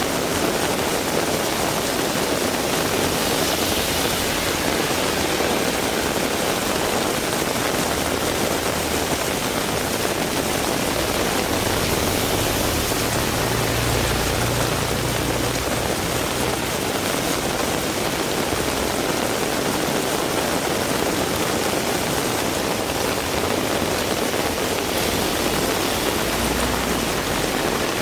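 Heavy rain falling steadily, a dense even hiss. A low rumble swells for a few seconds around the middle.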